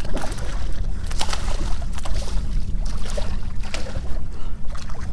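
Water splashing in short irregular bursts as a hooked redfish thrashes beside the boat, over a steady low wind rumble on the microphone.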